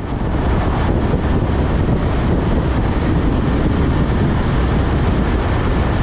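Steady wind rushing over the microphone with road noise from a motorcycle riding at highway speed, heaviest in the low rumble.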